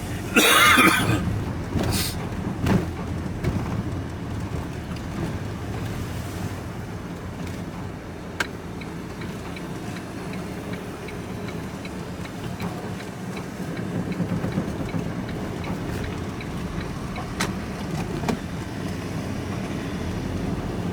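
Vehicle driving through a ford: a loud rush of splashing water about half a second in, then steady engine and road noise with a few sharp knocks.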